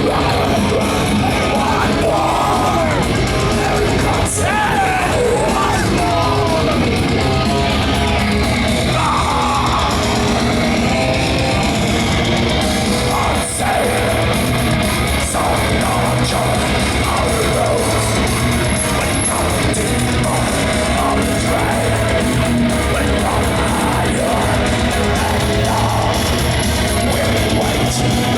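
Live heavy metal band playing at full volume, with distorted guitars, drums and shouted vocals, recorded from the audience.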